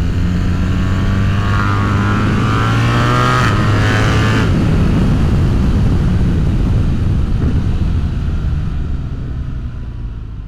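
BMW R1300GS 1300 cc boxer-twin engine running through an Akrapovic full exhaust system with a decat mid-pipe. The pitch climbs, then shifts abruptly about three and a half seconds in, and the sound fades out near the end.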